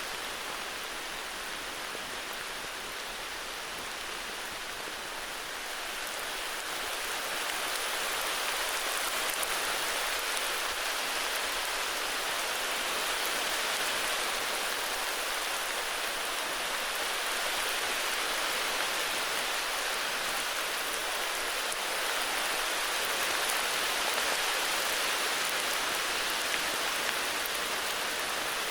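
Steady heavy rain falling, a continuous dense patter of drops that swells a little a few seconds in.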